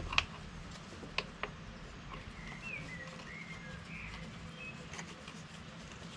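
A few sharp clicks or knocks in the first second and a half, the loudest right at the start, then a small bird chirping several short notes in the middle, over a steady low hum.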